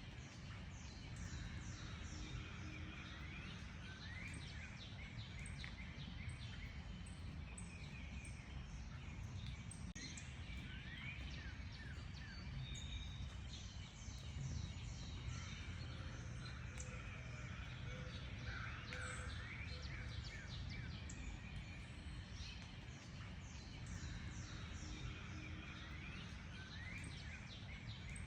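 Several birds singing and calling at once: a dense chorus of short chirps and quick up- and down-sweeping whistles, over a steady low background rumble.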